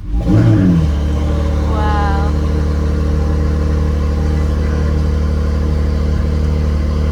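2019 Acura NSX's twin-turbo V6, fitted with a Quicksilver exhaust and race downpipes, cold-starting: it catches with a short flare of revs that rises for about half a second. Within a second it settles into a loud, steady idle.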